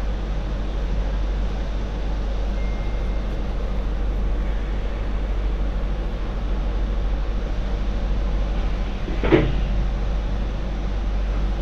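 MTR Light Rail Phase IV train running: a steady low rumble of motors and wheels on the track, with a single short clunk about nine seconds in.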